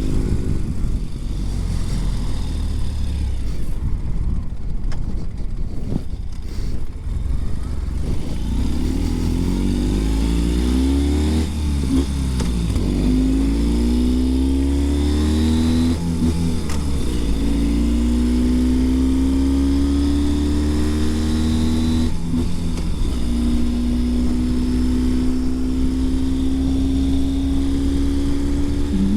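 Ural Gear Up sidecar motorcycle's air-cooled flat-twin boxer engine pulling under way, its pitch climbing and dropping back several times as it accelerates through the gears.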